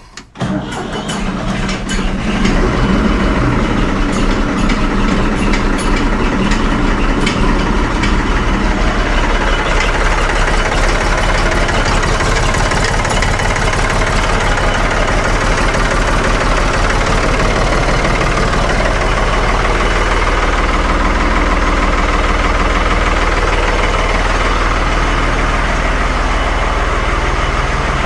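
The diesel engine of a 1975 Ford 550 backhoe starts and then runs steadily, with a clattery edge in the first few seconds. It is the first run after an oil and fluid change, circulating fresh oil to fill the new filters.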